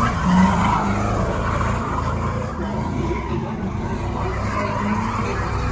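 Car tyres squealing against pavement over a running engine, the squeal wavering and strongest in the first second or so.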